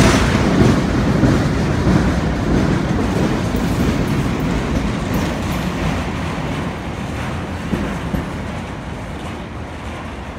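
Long Island Rail Road work train's empty flatcars rolling past on the rails, with steady wheel-on-rail noise fading as the train moves away.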